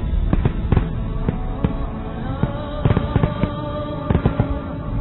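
Fireworks bursting in quick, irregular bangs, several a second, with music playing underneath; the bangs thin out near the end.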